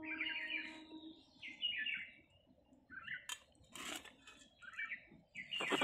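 Small songbirds chirping and twittering in short clusters of quick warbling notes, repeated every second or so, with a few sharp clicks in between.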